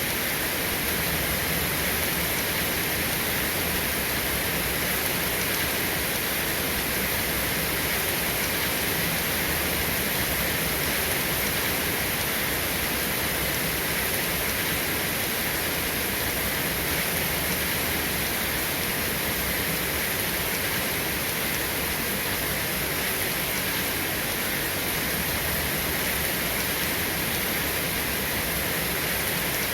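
Steady rain falling, an even hiss that holds level throughout with no thunderclaps.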